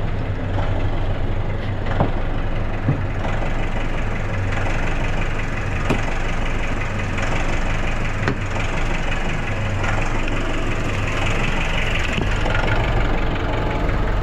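Nissan NV350 van engine idling roughly, with a few sharp ticks over the steady running. The idle is uneven, rising and falling, the fault being checked along with low power and heavy knocking.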